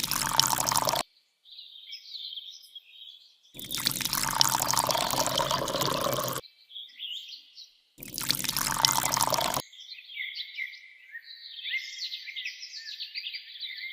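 Water gushing from a mini DIY water pump in three bursts, each cut off abruptly: one of about a second, a longer one of about three seconds, and one of about a second and a half. Birds chirp quickly and high-pitched in the gaps.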